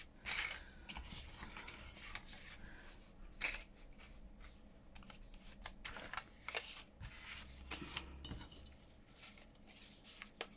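Paper journal pages and ephemera being handled and sorted by hand: light rustling with many scattered small clicks and taps.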